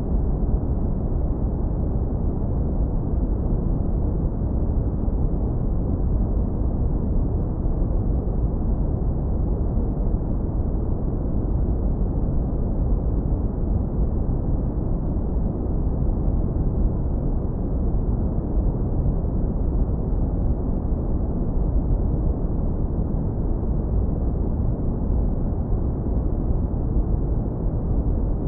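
Steady, deep brown noise, low-pass filtered so that it is all low rumble with no hiss on top, unchanging throughout.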